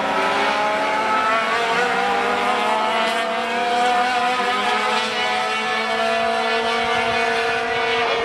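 Sport trucks racing on a short oval: several engines run hard at once, their pitches slowly rising and falling as the pack goes by.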